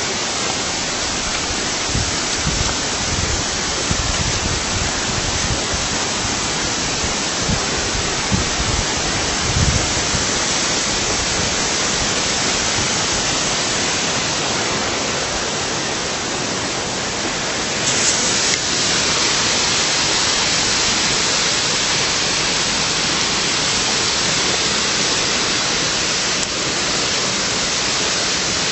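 Waterfall rushing in a steady, hissing roar. Low thumps come and go in the first ten seconds, and about two-thirds of the way in the rush grows louder and brighter.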